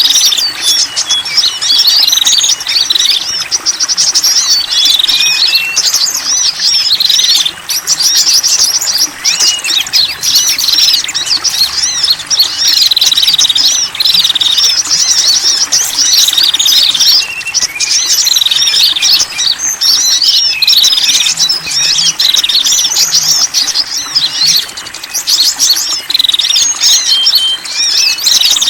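A dense chorus of small songbirds chirping and twittering, many high-pitched calls and trills overlapping without a break. It is a bird-lure recording that combines the calls of several small wild bird species, played to draw wild birds in.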